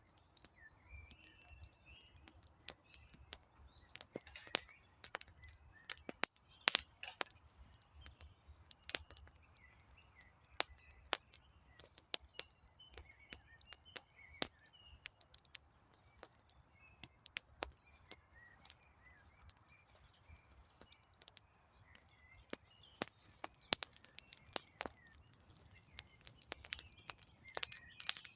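Wood campfire crackling, with irregular sharp pops and snaps throughout. Small birds sing short warbling phrases in the background, in several spells.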